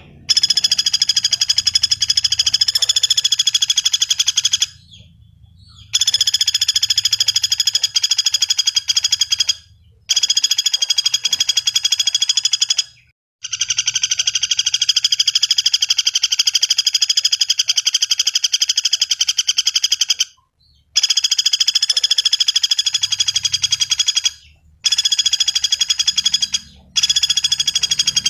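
Pelatuk bawang (common flameback woodpecker) calling in long, very fast rattling trills. The trills stop for short breaks several times.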